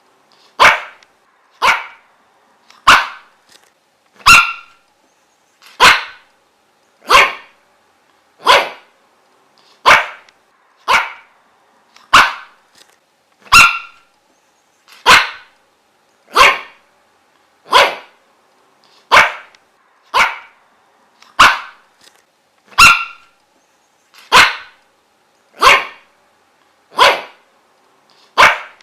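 A dog barking over and over in short, sharp single barks, evenly spaced about one every second and a quarter, with dead silence between them.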